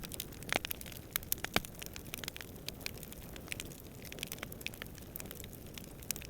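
Campfire burning with irregular sharp crackles and pops over a low steady rumble of flame and distant wind; the strongest pops come about half a second and a second and a half in.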